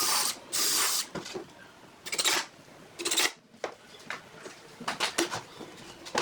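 Woodworking tool noises: a series of short noisy strokes, four of them in the first three and a half seconds, with sharp clicks and knocks between.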